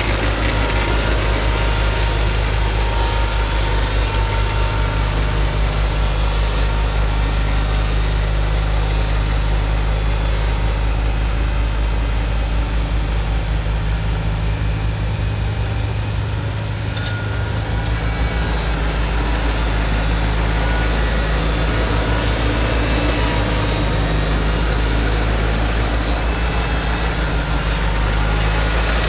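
Tractor engine running steadily while driving a snowblower, with a brief dip in level about halfway through.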